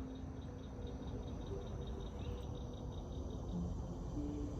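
Forest ambience of insects chirping in a rapid, regular pulse, about six chirps a second, which fades out about halfway through, over a steady low background hiss.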